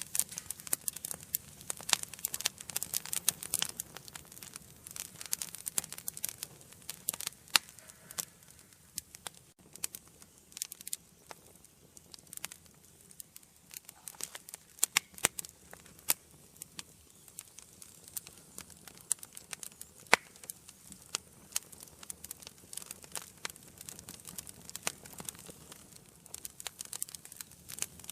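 Wood fire burning in an indoor fireplace, crackling with frequent irregular sharp pops and snaps over a soft hiss.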